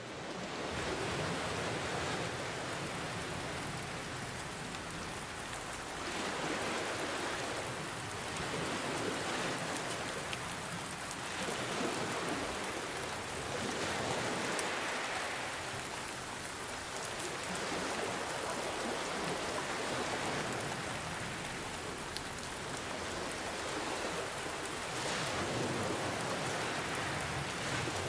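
Steady rain falling, mixed with ocean waves that swell and ease off every few seconds. The sound fades in over the first moment.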